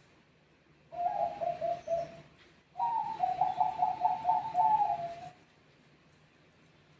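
Zebra dove of the Bangkok contest strain cooing: two rippling, trilled song phrases, a short one about a second in, then a longer one that starts higher and steps down in pitch.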